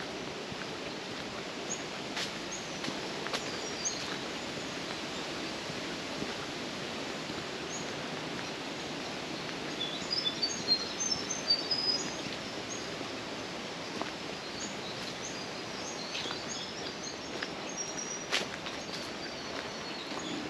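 Small birds chirping in short, high flurries, a burst about halfway through and more near the end, over steady background noise. A few faint ticks are heard.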